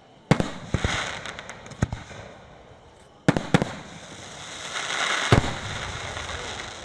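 Aerial fireworks shells bursting in a display: about six sharp booms at uneven intervals, the loudest about five seconds in, with a hissing trail after several of them.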